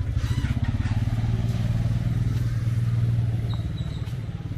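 Small motorcycle engine running close by, a fast low putter that swells slightly about three seconds in and eases toward the end.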